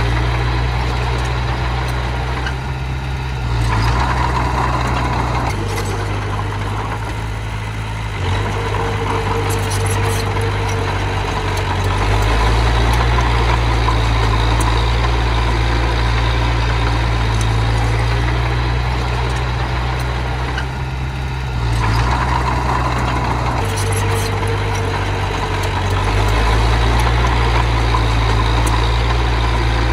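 Diesel engine of small earthmoving machinery running continuously, its low drone stepping up and down in pitch and load every few seconds as the machine works.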